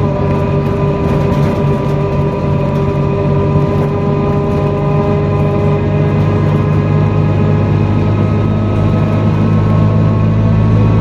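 NefAZ-5299 city bus running, heard from aboard: the engine and drivetrain whine drops in pitch right at the start, as the bus eases off or shifts gear. It then runs steadily and rises slightly again near the end.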